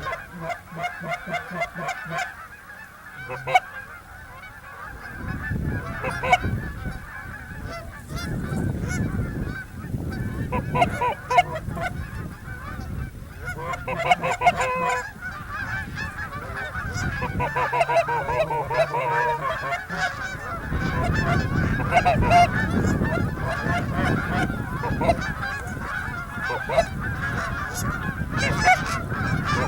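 Many geese honking over and over, overlapping calls with no break. A low rumble comes and goes in several stretches underneath.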